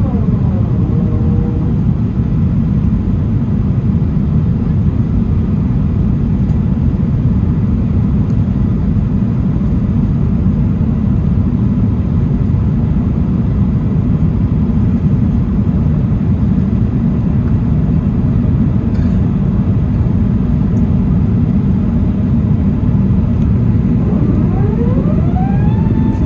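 Steady low rumble of jet engines and airflow heard inside an Airbus A380 cabin, unchanging throughout.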